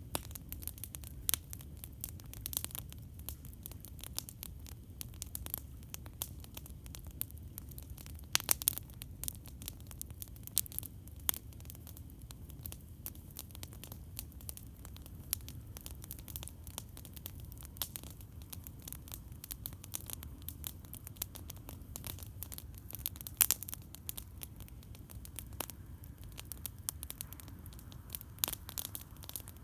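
Campfire crackling: irregular sharp pops and snaps of burning wood, with a few louder pops, over a steady low rumble.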